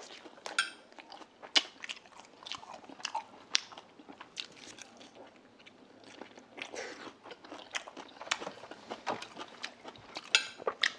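A person chewing and biting food close to a clip-on microphone: irregular wet mouth clicks and crunches while eating grilled eel.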